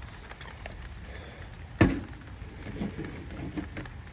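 Handling noises while swapping from the cooking-spray can to the margarine: one sharp knock a little under two seconds in, then a few light taps.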